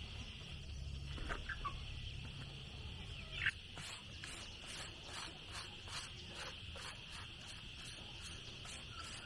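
Insects drone steadily in a high, even band, and chickens cluck, with one sharp call about three and a half seconds in. Faint regular clicks, about three a second, run through the second half.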